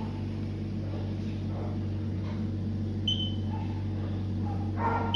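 Steady low electrical hum, with a short high beep about three seconds in and another near the end.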